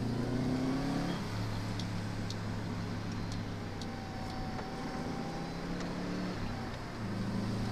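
1998 Subaru Impreza WRX STi Version 5's turbocharged 2.0-litre flat-four engine heard from inside the cabin while driving. The revs climb in the first second, drop about a second in, run steady and lower, then pick up again near the end. A few faint light clicks sound over it.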